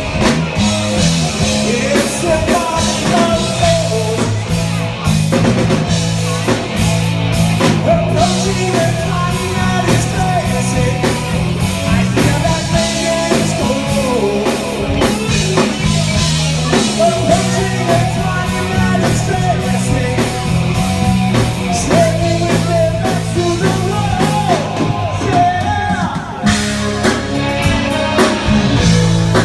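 Rock band playing heavy metal: distorted electric guitar over bass guitar and drum kit, running without a break.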